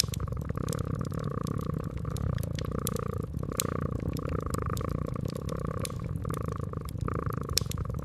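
Domestic cat purring steadily in pulses, with sharp crackles and pops from a wood fire scattered over it; the loudest pop comes near the end.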